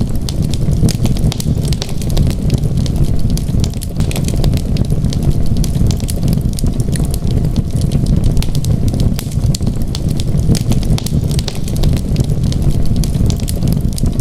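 Wood fire burning in a fireplace, crackling and popping irregularly over a steady low rush of flame.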